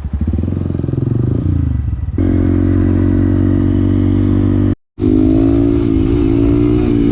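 Honda MSX125 (Grom) mini motorcycle's single-cylinder engine running, its revs falling off in the first second or so and then holding steady. The sound cuts out for a moment about five seconds in.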